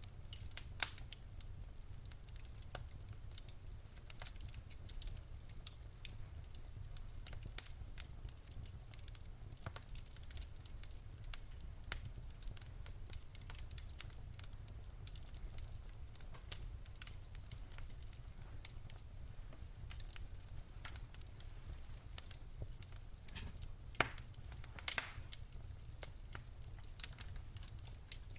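Wood fire in a fireplace crackling, with irregular sharp pops and snaps from the burning logs over a low steady rumble; a few louder pops about a second in and near the end.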